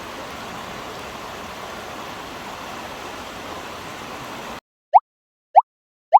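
Steady rushing noise that cuts off abruptly about four and a half seconds in, followed by three short rising blips about half a second apart, an edited-in sound effect over dead silence.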